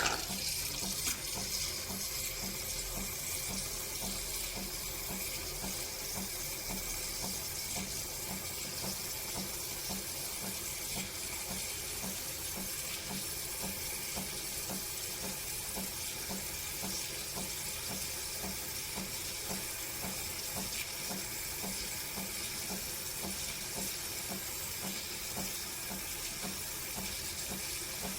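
De'Longhi Dinamica Plus espresso machine running steadily while it dispenses: a continuous watery hiss, with a faint regular low pulse a few times a second.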